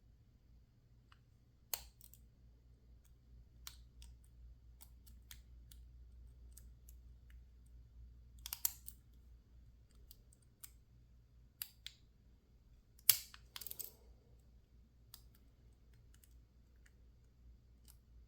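Faint, scattered metallic clicks and ticks of a lock pick working the pin stack of a PacLock 410 Pro padlock, with sharper clicks about 2, 8.5 and 13 seconds in. The pins are stiff, needing unusually hard pushing to set.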